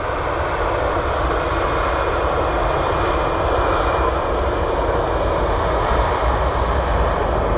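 Jet airliner engines running, a steady broad roar with a low rumble beneath, growing slightly louder over the first second.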